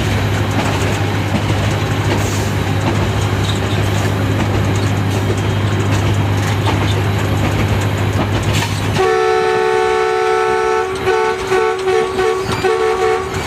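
Locomotive cab of a ZCU-30 diesel-electric locomotive: steady engine drone and running noise, then about nine seconds in the multi-tone air horn sounds, one long blast followed by a quick run of short toots.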